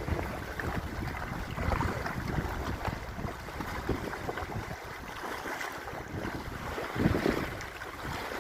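Wind buffeting the microphone over waves lapping around a kayak on open water, with a louder buffet about seven seconds in.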